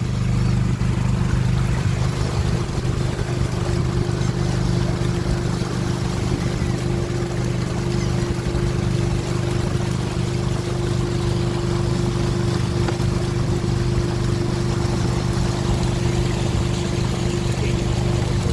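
Motorboat engine running at a steady pitch, with water rushing past the hull.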